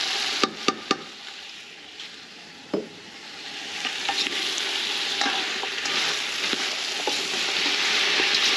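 Chickpeas, potato and carrot sizzling in an aluminium pot while a spoon stirs them, scraping and clicking against the pot. Three sharp taps come in quick succession about half a second in. The sizzle then drops for a couple of seconds and builds back up.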